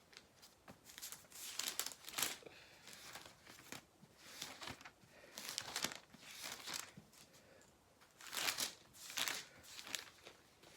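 Thin Bible pages being leafed through: a string of short paper rustles every second or so while the reader searches for a passage.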